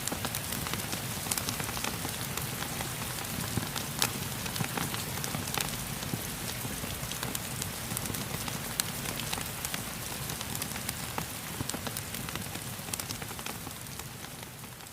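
Steady rain falling, an even hiss dotted with scattered sharp crackles of a wood fire, beginning to fade near the end.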